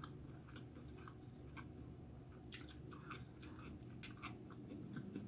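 Faint chewing of sushi rolls, soft wet mouth clicks coming more often in the second half.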